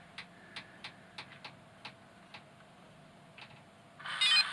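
Small DC motor on a bench power supply at 9 volts: a run of sharp, irregular clicks, then about four seconds in the motor starts up with a whine and keeps running.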